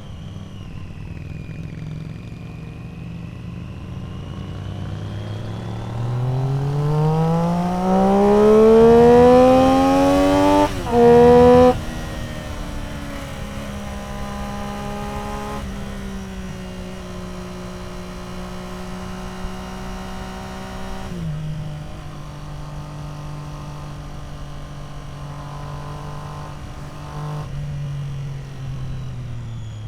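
Triumph Street Triple R three-cylinder engine through an Arrow aftermarket exhaust, on the move. It holds a steady speed, then revs up hard under acceleration from about a fifth of the way in, with a quick gear change at the top and a short further rise. This acceleration is the loudest part. It then settles into a steady drone, steps down in pitch about two-thirds through, and falls away at the very end.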